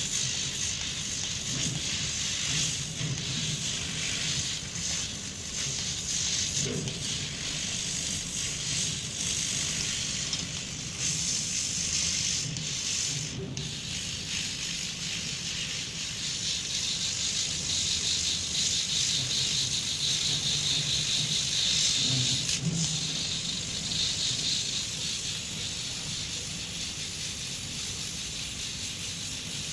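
CNC engraving machine running and cutting: a steady, high-pitched noise over a rough low hum, getting louder for a stretch past the middle.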